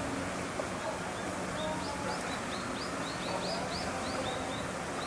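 A small bird chirping a quick run of short, high notes, about four a second, over a steady low background hum.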